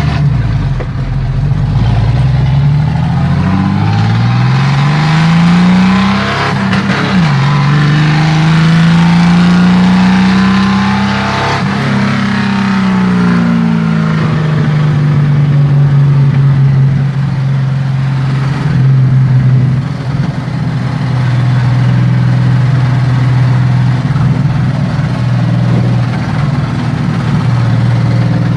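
Chevrolet 400 with an open exhaust accelerating hard: the engine note climbs, drops back at a gear change, climbs again, then the revs fall away and it settles into a steady cruise.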